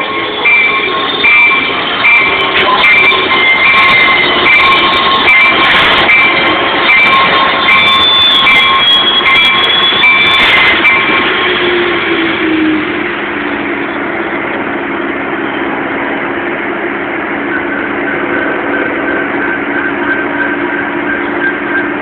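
Metrolink commuter train pulling into a station, its rumble loud and continuous. A bell rings steadily for about the first half. About halfway through, a low hum drops in pitch and settles as the train slows.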